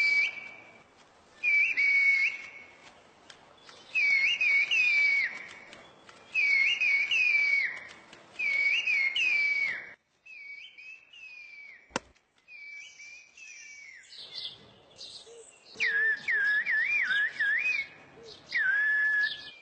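A person whistling speech in the Turkish whistled language (kuş dili, 'bird language'): a string of short phrases of gliding, warbling whistles. After about ten seconds the whistles turn fainter, with a sharp click partway, then grow loud again near the end.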